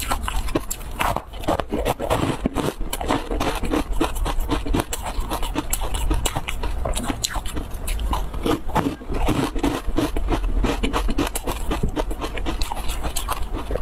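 Close-miked chewing of a bite of crumb-coated dessert, a dense, irregular run of small crackling clicks and mouth sounds.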